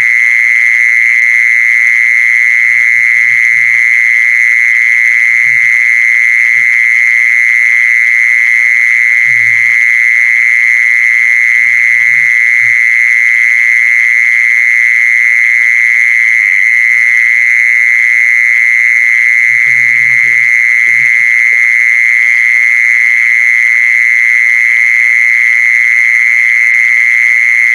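Lure call for the female khmol: a steady, unbroken high-pitched buzzing tone at constant loudness.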